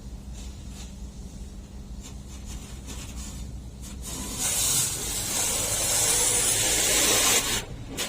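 High-pressure water jet spraying onto a car during a wash, a loud hiss that starts about four seconds in and breaks off briefly near the end. A steady low hum of machinery runs underneath.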